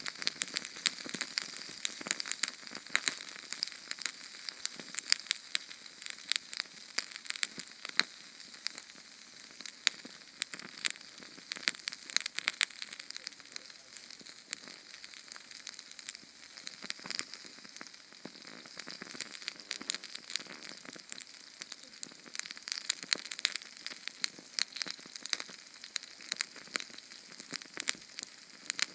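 Small Sterno canned-fuel flame crackling: a dense, irregular run of quick pops and ticks over a light hiss, high and thin with almost no low rumble.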